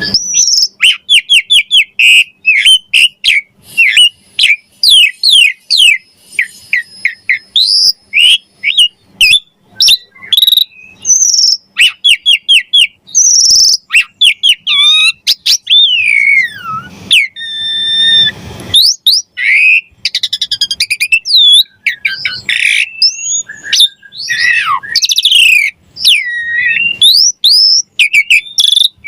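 Asian pied starling (jalak suren) singing hard: a fast, unbroken run of loud whistles, chirps and rising and falling sweeps, strung together in a varied song of borrowed phrases.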